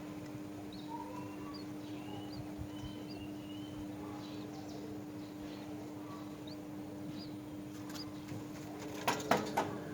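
Faint scattered bird chirps and short rising whistles over a steady low hum. Three sharp taps come close together near the end.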